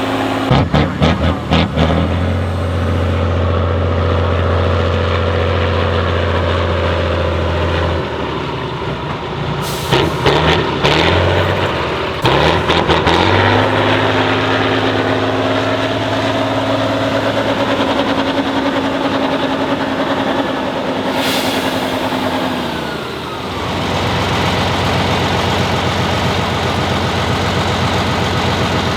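Heavy off-road trial truck's diesel engine running under load. It revs up about halfway through, holds steady, then drops back near the end. Short bursts of crackling knocks come near the start and again a little before the revs rise.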